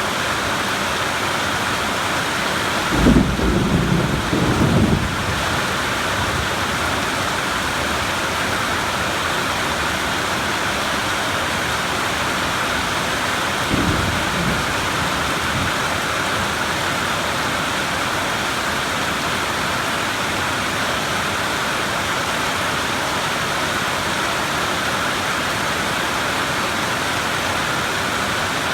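Steady rain falling throughout, with a loud low rumble of thunder about three seconds in that lasts around two seconds, and a shorter, fainter rumble about halfway through.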